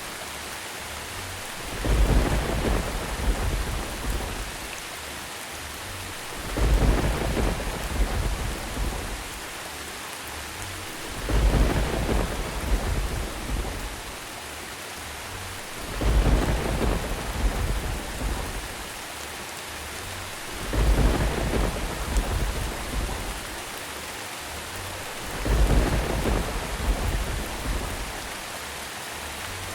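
Steady rain with a deep rumble of thunder swelling and fading about every four and a half seconds, six times in even succession.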